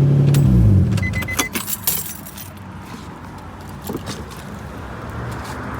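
Nissan 350Z's VQ35DE V6 idling, running fine with a new spark plug and coil pack on cylinder 3, then switched off about half a second in, its note dropping as it winds down. Keys then jangle and click, with a short run of beeps just after.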